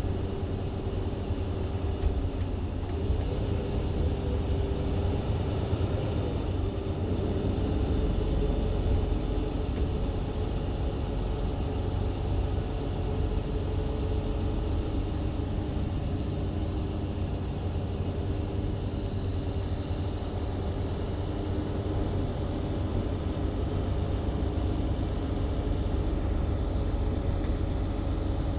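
Mercedes-Benz Citaro C2 LE hybrid bus with Voith automatic transmission heard from inside while driving: a steady low engine and drivetrain rumble with a humming whine. The whine rises in pitch briefly a few seconds in, then holds steady.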